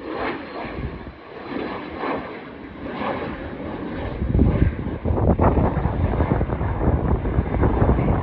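Airplane taking off, its engine rumble growing louder and deeper about halfway through.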